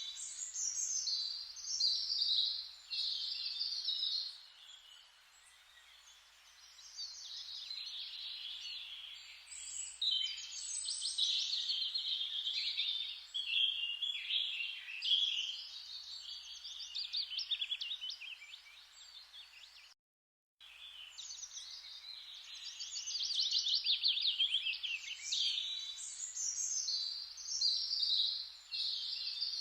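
Forest ambience of many songbirds chirping and trilling at once, over a faint hiss. The sound cuts out completely for about half a second about twenty seconds in, then resumes.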